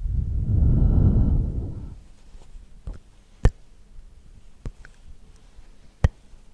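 Close-miked ASMR trigger sounds: a soft, low rumble right against the microphone for about two seconds, then four single sharp clicks spaced out over the rest.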